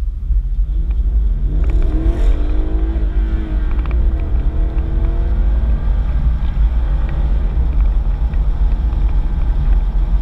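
Holden VFII Commodore Motorsport Edition's 6.2-litre V8 accelerating hard from walking pace to highway speed, a deep, steady rumble heard from inside the cabin, with the revs rising and falling in the first few seconds.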